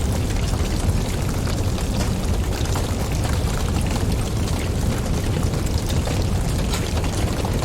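Wood fire burning with a steady low rumble of flames and scattered small crackles and pops.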